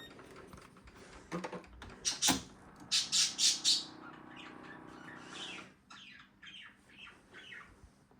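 Bird squawks and chirps: several loud short squawks in the first half, then a run of quick falling chirps. Under the squawks a low steady hum cuts off abruptly about halfway through.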